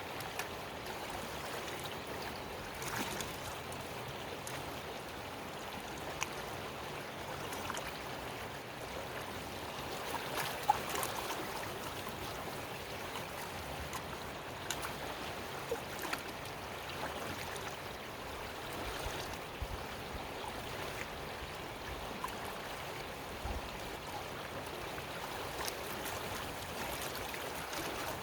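Creek water flowing steadily, with scattered small clicks and splashes as a gold pan of gravel is worked down in the water.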